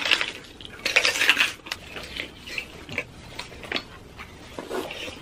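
Close-miked mukbang eating sounds: bites into roast pig and chewing, in irregular bursts, the loudest about a second in.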